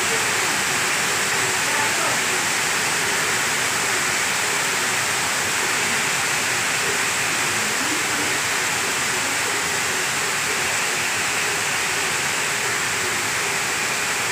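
Heavy rain pouring down in a steady, dense hiss, with faint voices under it.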